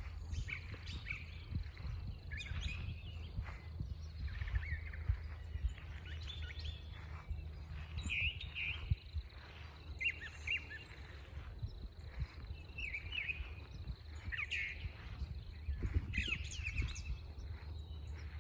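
Birds chirping and calling outdoors, short calls coming every second or so, over a steady low rumble.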